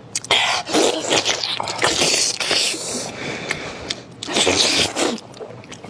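Close-up eating sounds: irregular bursts of chewing and mouth noise from someone eating.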